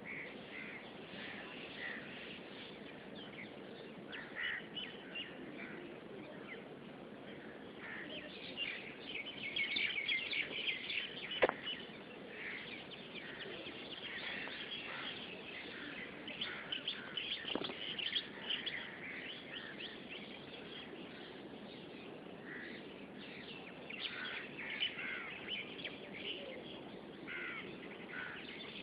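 Birds calling and chirping in many short, overlapping calls, busiest in a few stretches, with two sharp clicks in the middle.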